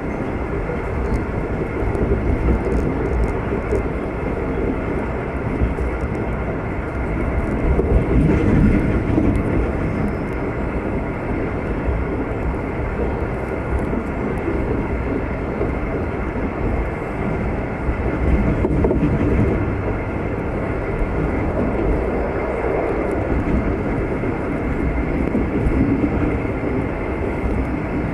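Locomotive-hauled V/Line passenger train running along the track, heard on board: a steady rumble of wheels on rails that swells a few times.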